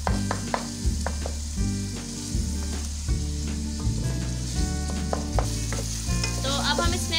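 Chopped tomatoes and fried onions sizzling in hot oil in a pan while a spoon stirs them, scraping and tapping against the pan in short clicks. The tomatoes are at the stage of being cooked down until soft.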